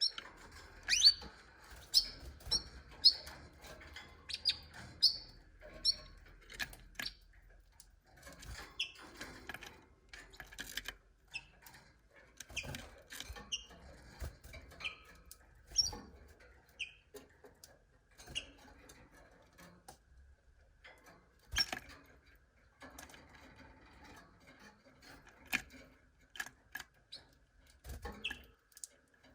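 Canaries chirping in short high notes, a quick run of them over the first six seconds and then only now and then, among scattered sharp clicks and taps.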